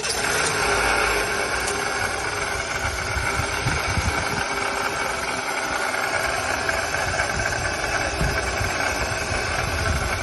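Car engine running at idle just after start-up, with the knocking noise the owner complains of, which the mechanic traces to a failing water pump.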